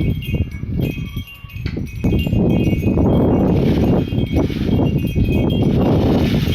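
Faint high chiming tones ring on throughout. From about two seconds in, wind buffets the microphone and becomes the loudest sound.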